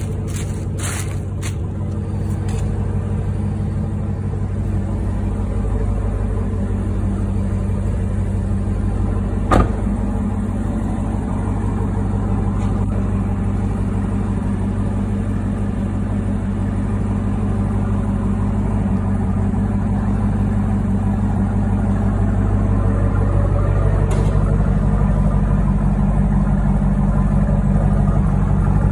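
Supercharged 6.2-litre LT4 V8 of a 2018 Chevrolet Camaro ZL1 idling steadily, a little louder toward the end. Plastic seat-cover wrap crinkles in the first couple of seconds, and there is a single sharp click about ten seconds in.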